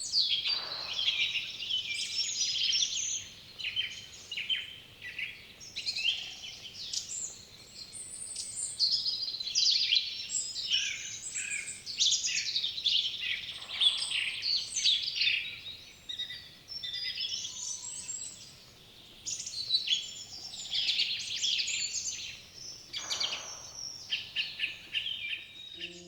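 Dawn-style chorus of several songbirds singing at once, with fast overlapping chirps and trills that go on without a break.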